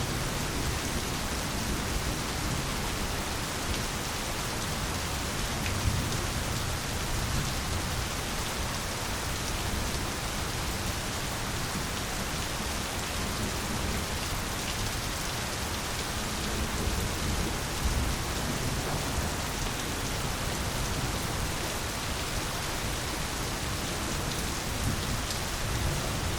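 Steady rain falling, with low rumbles of distant thunder swelling now and then.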